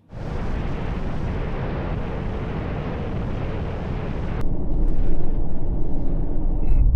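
Truck driving, with a loud, steady rush of wind and road noise. About four seconds in it turns into a deeper, louder rumble.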